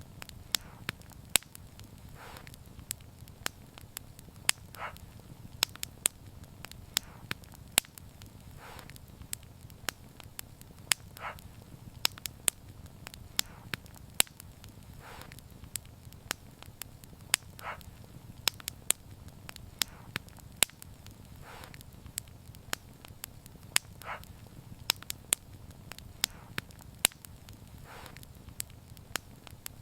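Wood fire burning, with frequent sharp crackles and pops of varying loudness over a low steady rumble of flames, and a soft puff recurring about every two seconds.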